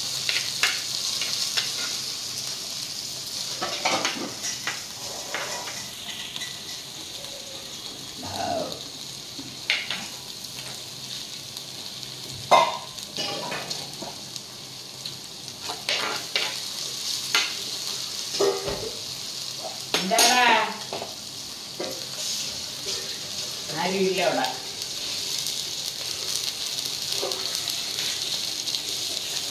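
Garlic, green chillies and curry leaves sizzling steadily in hot oil in a black clay pot, while a metal spoon stirs and knocks against the pot now and then. A few brief pitched sounds stand out, the loudest about twenty seconds in.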